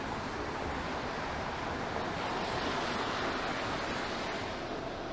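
Steady hiss of car tyres on wet pavement from passing traffic on a rain-soaked street, swelling about halfway through and easing off near the end.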